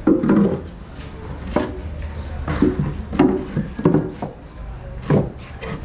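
Irregular knocks and clunks, about half a dozen over a few seconds, over a low steady hum.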